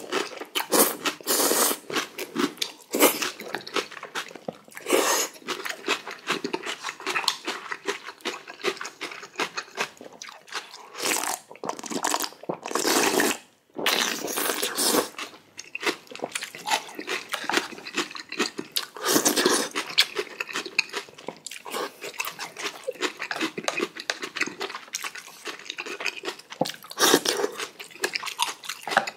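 Close-miked eating sounds: steady chewing with crunchy bites and a few longer, louder noisy stretches, as a mouthful of spicy cold noodles is eaten.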